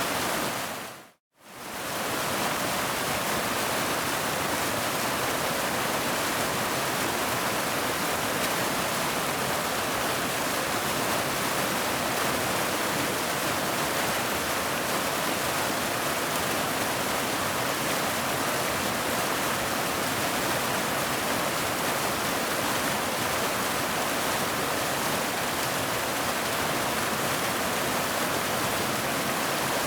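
Waterfall: a steady rush of falling water, even and unbroken, except for a brief fade down to silence about a second in that swells back up.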